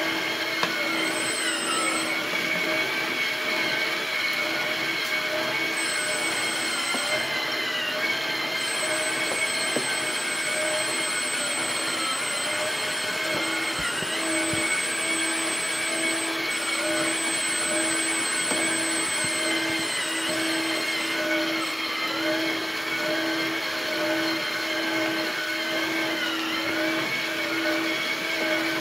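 Small electric gear motors of an RC dump truck and dump pit setup running steadily with a high whine, the pitch sagging briefly every few seconds as they take load.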